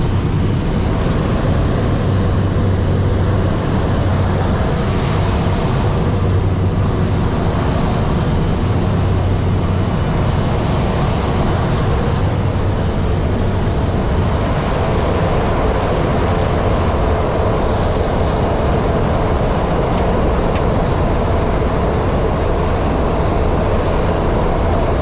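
Steady airliner cabin noise heard from a passenger seat, engines and airflow running at a constant level, with a low hum that swells and fades a few times.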